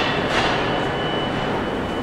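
Steady low rumble of a train moving on the tracks nearby, with a faint steady high whine above it. Two short hissing swishes in the first half-second.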